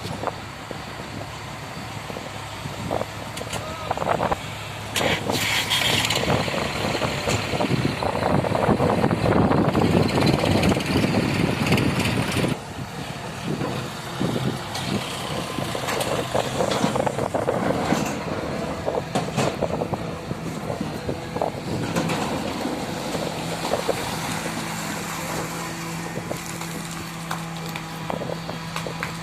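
Hydraulic excavator at work, its diesel engine running steadily while dug earth and debris are tipped into a tractor trolley, with louder noisy spells and knocks as the loads go in.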